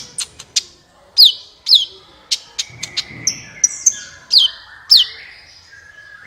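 Sunbird singing a fast, irregular run of sharp high chips and short downward-slurred whistles, which stops about a second before the end.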